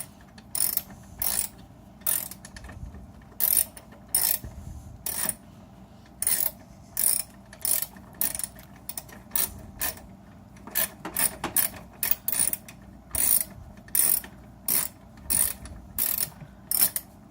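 Hand ratchet wrench backing a bolt out: short bursts of ratchet clicks, roughly one or two a second, as the handle is swung back and forth.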